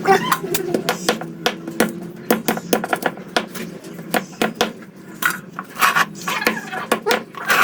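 Metal utensils and dishes clinking and knocking in an irregular run of sharp strikes, as when the kitchenware is handled while a chicken is prepared for cooking.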